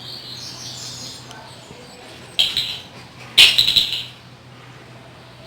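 Birds chirping faintly in the background, with two short rustling noises about two and a half and three and a half seconds in.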